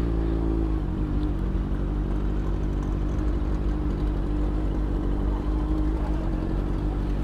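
Suzuki GSX-R600 inline-four engine running steadily at an even pitch.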